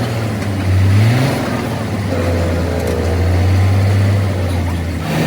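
A truck's diesel engine running with a steady low hum. It is revved briefly about a second in, the pitch gliding up and back down, then it settles and keeps running evenly.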